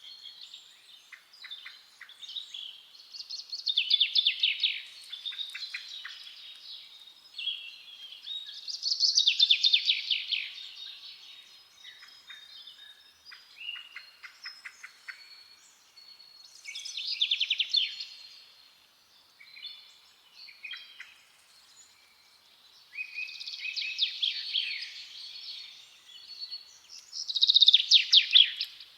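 Several songbirds singing, one loud song of rapid trilled notes lasting about two seconds roughly every four to five seconds, with softer calls and trills from other birds in between.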